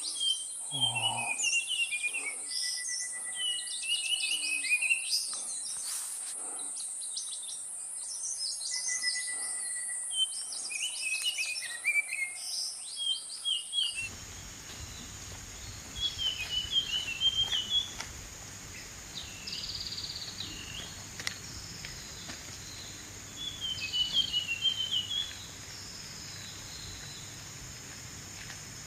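A songbird singing in short phrases of quick chirping notes, with a steady high-pitched insect whine behind during the first half. About halfway through, the background turns noisier and two more song phrases follow.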